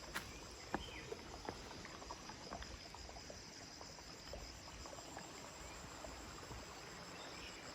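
Quiet forest ambience: a steady high drone of insects such as crickets over a faint low rushing noise, with scattered small clicks and a faint bird call near the end.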